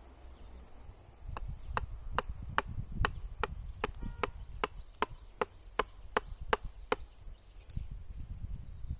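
Knife chopping into the trunk of a wild date palm to cut a fresh tapping face for toddy: a run of quick, sharp strokes, about three a second, starting about a second and a half in and stopping about seven seconds in.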